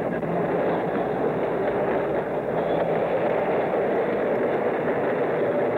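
Railroad train noise on an old film soundtrack: a steady, dense rumble with a low engine hum underneath, dull and lacking any high end.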